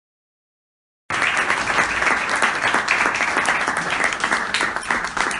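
Silence, then about a second in a crowd's applause starts abruptly: dense, even clapping that holds steady.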